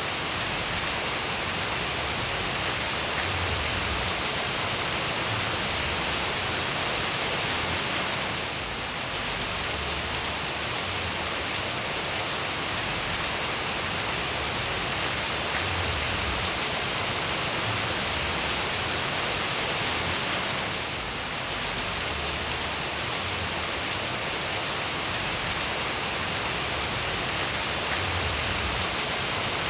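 Steady rain falling, an even hiss of many drops, briefly softening twice.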